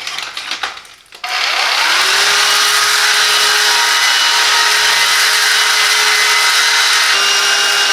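Cordless Silvercrest 18-volt handheld vacuum cleaner switched on about a second in after some handling clicks. Its motor whines up to speed and runs steadily, with a high-pitched whine, then begins to wind down at the very end.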